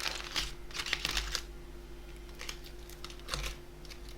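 Light clicks and taps of plastic takeout containers being handled: a cluster in the first second and a half, then a few scattered ones.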